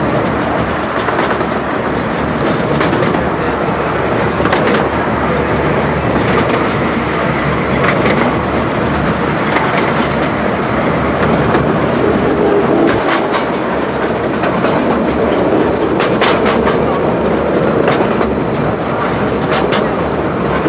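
15-inch gauge miniature railway train running, heard from an open carriage: a steady rolling noise with wheel clicks over the rail joints every second or two.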